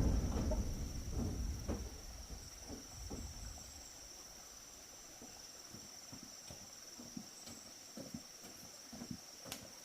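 Insects chirring in one steady high tone throughout. A heavy low thump with rustling fills the first second or two, and scattered light knocks and taps follow, growing more frequent near the end.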